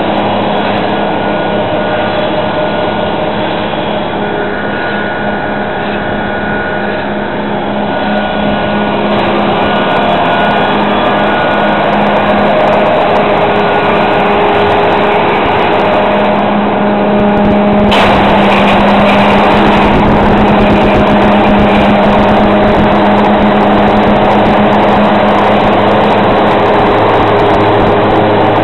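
Fendt 924 Vario tractor running with a Kemper Champion 3000 forage harvester: a steady machine drone with constant humming tones. About two-thirds of the way through, the sound abruptly turns louder and fuller.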